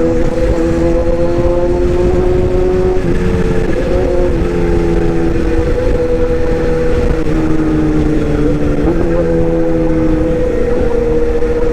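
A small motor running steadily with a two-tone hum, its pitch dipping briefly about three seconds in and again just before nine seconds.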